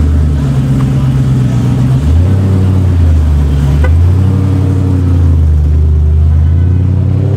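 Car engine running loud and steady, its pitch stepping up about two seconds in and again about four seconds in.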